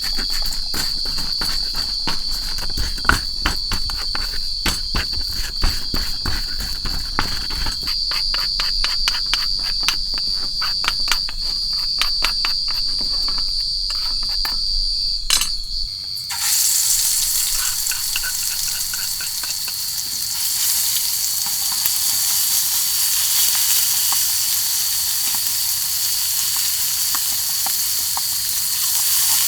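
Crickets trilling steadily, with many sharp crackling clicks in the first half. About halfway through, a loud sizzling hiss of food cooking starts abruptly and carries on.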